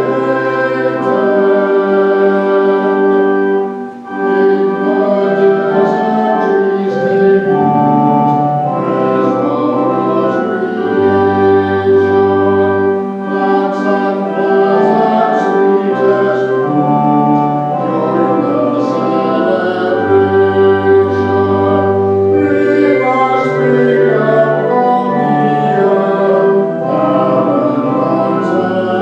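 Church organ playing a hymn with voices singing along, in long held chords with a short break between lines about four seconds in.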